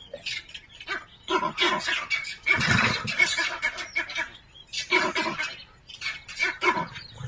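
Animal calls: a string of short, irregular cries with brief gaps between them.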